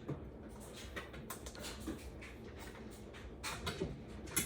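Irregular small clicks, taps and rustles of hands handling and fitting parts during assembly, with a sharper knock near the end.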